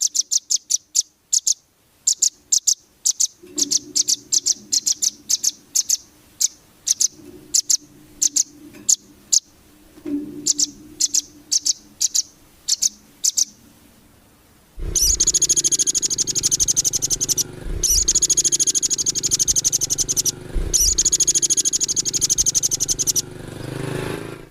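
Small songbird singing: a run of sharp, high, evenly repeated chirps, then about fifteen seconds in, a fast, continuous high trill, broken twice by brief pauses.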